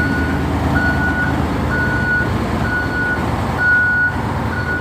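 Heavy truck's reversing alarm beeping about once a second, one steady high tone per beep, over the steady low rumble of the running engine.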